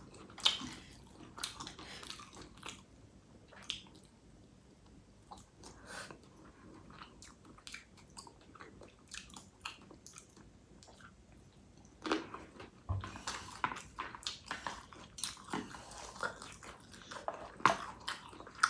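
Close-miked eating: chewing and wet mouth smacks with small clicks, sparse at first and becoming busier and louder about two-thirds of the way through.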